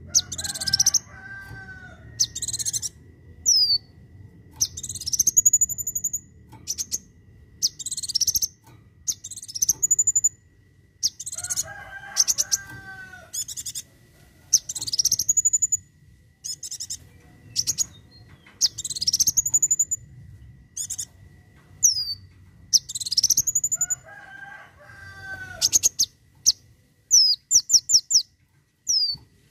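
A kolibri wulung sunbird singing: sharp, high rising whistles and quick short notes repeated every second or two. A lower warbling phrase comes three times, and a fast run of notes comes near the end.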